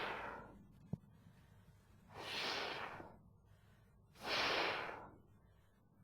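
A man pronouncing the voiceless consonant /f/ in isolation three times, each a breathy hiss of just under a second, about two seconds apart. A short click about a second in.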